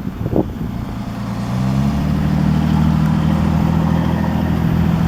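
An engine running, its low hum stepping up in pitch about a second and a half in and then holding steady.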